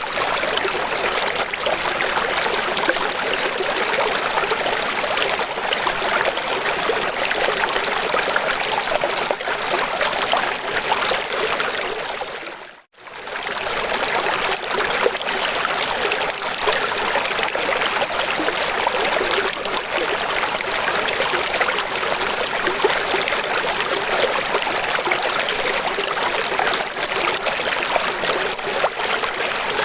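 Steady running water, a light, even rush with little deep rumble. It briefly fades to silence and back about thirteen seconds in.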